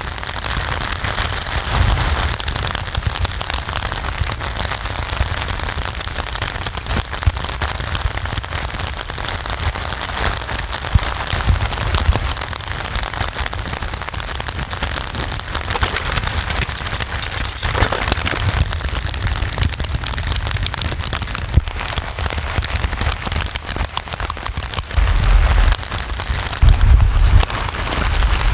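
Steady rain, a dense patter of individual drops over a constant hiss, with a low rumble underneath that swells into heavier thuds near the end.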